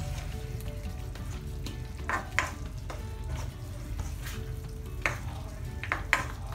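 Chicken and capsicum sizzling in a wok while a spatula stirs it, with a few sharp scrapes of the spatula against the pan.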